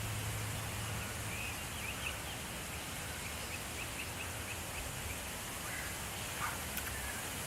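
A small songbird giving a run of short, high chirps, about three a second, over steady wind noise; a low hum underneath stops about a second and a half in.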